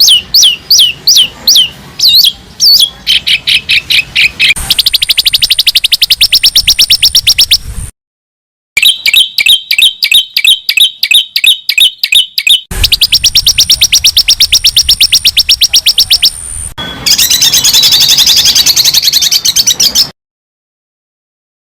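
Recorded songbird song played in short edited segments: repeated sharp down-hooked chirps, then fast even trills and rapid chirp series, then a tangled warble. Each segment starts and stops abruptly, with a short silence about eight seconds in and another near the end.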